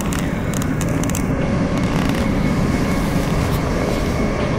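Interior noise of an electric passenger train running at speed: a steady low rumble of wheels on rail, with a few light clicks in the first second or so.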